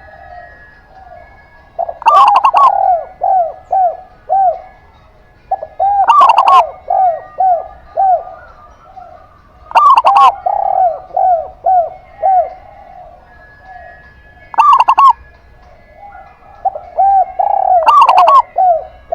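Zebra dove (perkutut) singing its loud cooing song: about five phrases, roughly one every four seconds. Each phrase is a sharp, loud opening note followed by a quick run of five or six short hooked coos.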